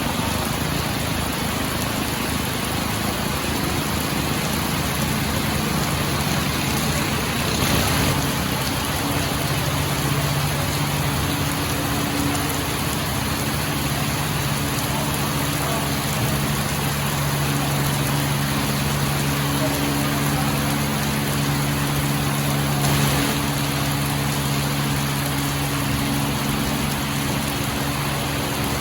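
Boat engine running steadily with a dense hiss over it; the engine's low hum comes through more clearly from about nine seconds in.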